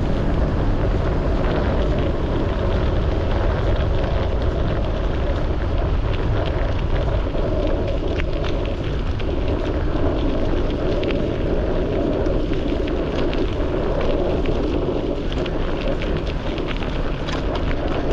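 Wind buffeting the microphone: a steady low rumble, with faint ticks and crackles scattered through it.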